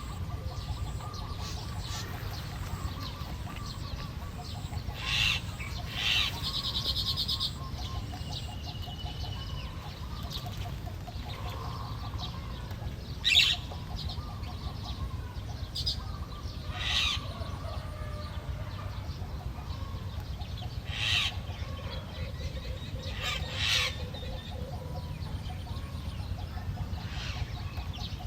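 Birds calling: short calls every few seconds, the loudest about halfway through, with a few trilling stretches, over a steady low rumble.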